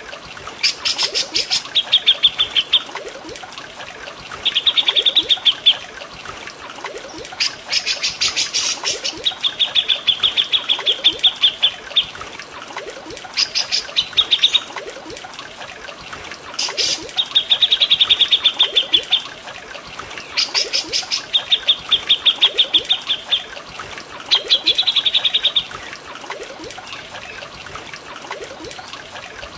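Songbird calls from a bird-master mix of cucak jenggot and cililin: bursts of quick, rapidly repeated chattering notes, each burst lasting one to two seconds and coming every few seconds. A steady trickle of water runs underneath.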